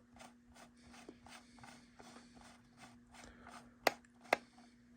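A small screwdriver turning a screw out of a plastic HO-scale model railcar body: soft, scratchy strokes about three to four a second, then two sharp clicks a little before the end.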